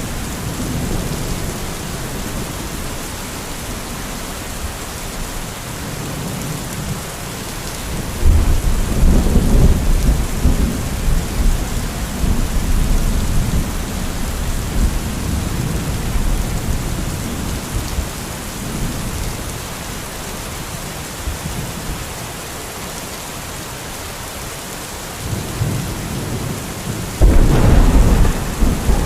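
Thunderstorm: steady heavy rain, with a long peal of thunder rolling in about eight seconds in and a second, sharper thunderclap near the end.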